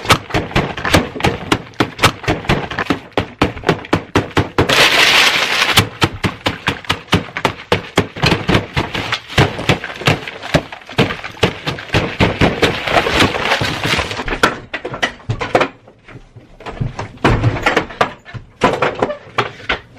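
Close-miked eating sounds: rapid sharp crunches and chewing of crunchy food, with a brief louder crunching burst about five seconds in.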